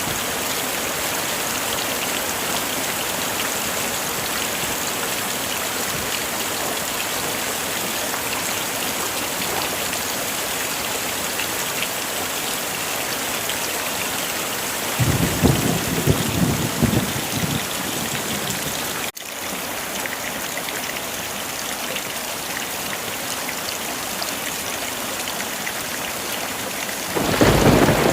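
Heavy rain falling steadily, with a roll of thunder about halfway through and another starting near the end. The rain cuts out for an instant about two-thirds of the way in.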